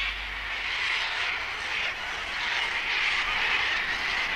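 A large flock of sulphur-crested cockatoos calling at once, many harsh calls overlapping into a continuous raucous din.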